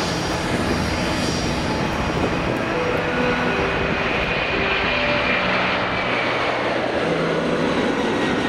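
Boeing 747-400's four jet engines at takeoff power, a loud steady rush of engine noise. The noise sweeps down in pitch over the second half as the jet passes.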